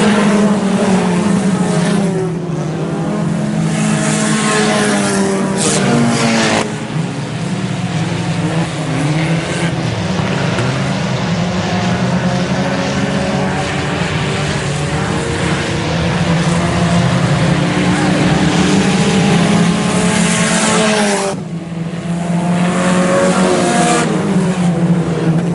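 A field of IMCA Sport Compact race cars running laps together, several engines revving up and down at once as they go through the turns and down the straights.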